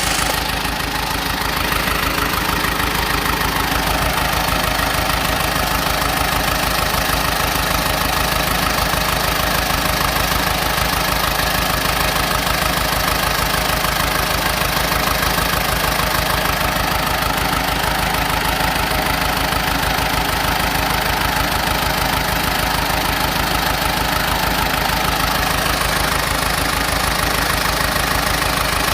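Small crawler bulldozer's diesel engine running steadily, with a rapid, even pulse of firing strokes.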